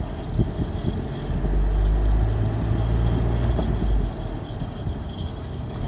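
A 1992 Ford Ranger pickup running and rolling, heard from inside the cab: a low engine hum with road rumble. The hum swells about a second and a half in as the manual gearbox is let back into gear from a coast, and eases again near the end.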